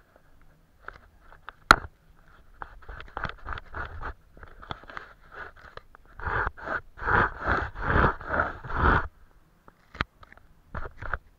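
Paintbrush strokes scraping across paper, a string of short scratchy strokes. They grow louder and quicker about six seconds in, to around three a second, and there is a sharp click a couple of seconds in and another near the end.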